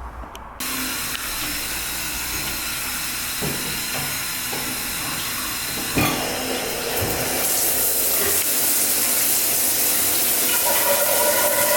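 Running water hissing steadily, starting suddenly about half a second in, with a single knock about six seconds in. Music comes in near the end.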